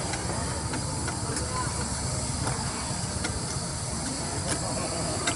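Steady hiss of outdoor background noise with indistinct voices and a few light clicks.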